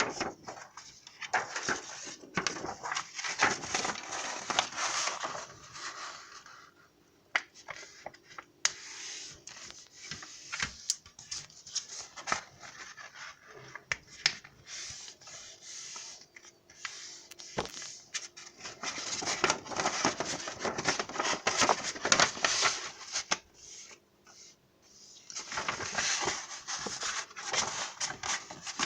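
Paper being handled while a notebook is made by hand: rustling and scraping in three long spells, with scattered sharp clicks in between.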